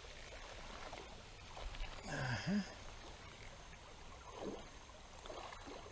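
Steady rush of creek water flowing around a wading angler, with a short low murmured sound from a person about two seconds in.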